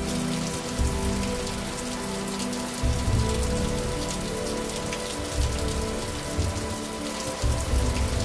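Heavy rain falling steadily, an even hiss full of fine drop crackle. Low thuds recur every two seconds or so, with a faint sustained musical tone underneath.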